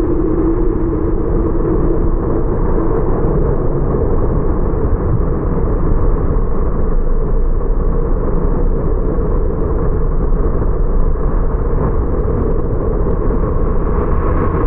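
Car driving, with steady road and tyre noise and engine sound. A humming note fades out in the first two seconds.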